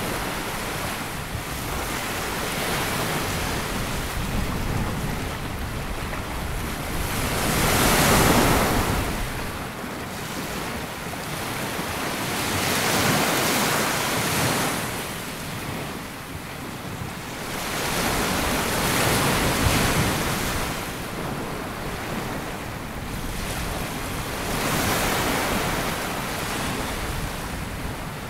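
Sea waves breaking and washing up a sandy beach, the surf swelling and fading again about every five to six seconds.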